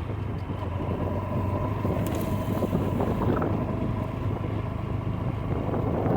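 Motorcycle engine running steadily while riding, a constant low hum.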